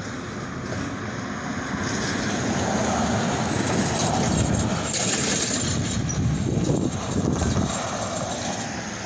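De Queen and Eastern Railroad freight cars rolling past at close range, a steady rumble of wheels on the rails that swells to its loudest about four to five seconds in and eases off near the end.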